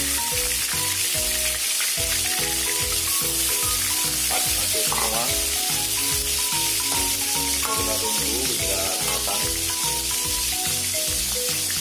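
Slabs of marinated tempe sizzling steadily in hot oil in a steel wok, a dense even crackle of frying. Background music with a steady beat plays under it.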